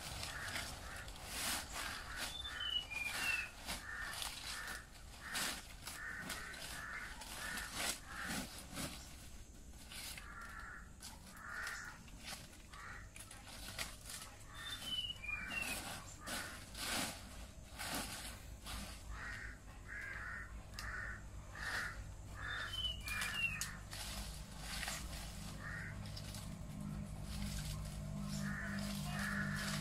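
Birds calling: repeated harsh caws in short series, with a few brief high chirps. Scattered sharp knocks are heard throughout, and a low steady hum comes in near the end.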